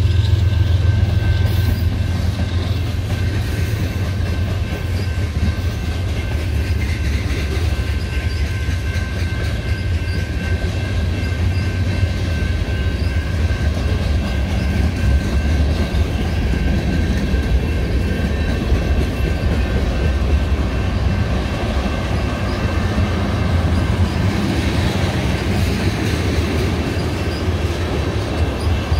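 Freight train of tank cars and boxcars rolling past close by: a steady low rumble of steel wheels on rail with some clickety-clack of the wheels over the rail joints, and a thin steady high tone over it.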